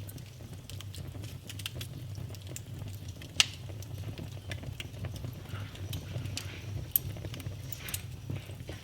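Fire burning in a fireplace: a steady low rumble of flames with scattered crackles and a sharp pop about a third of the way in, then a smaller pop near the end.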